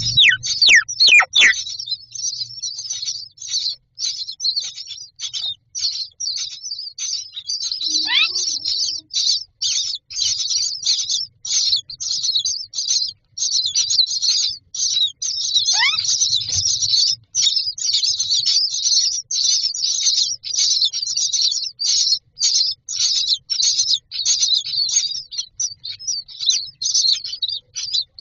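Common myna chicks in a nest box giving rapid, harsh begging chirps, three to four a second, without a break. A few falling whistled notes cut through them.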